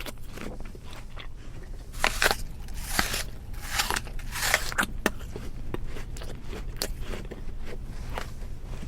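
An animal chewing crunchy food: irregular crunches and clicks, loudest and thickest between about two and five seconds in, over a steady low hum.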